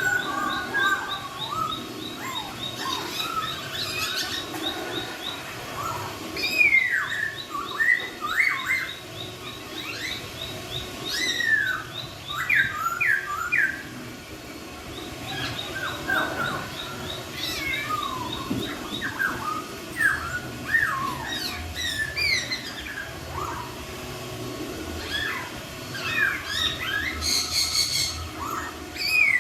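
A laughingthrush (poksay) singing a loud, varied string of short whistled notes that slide up and down, now and then mixed with a fast, high ticking chatter.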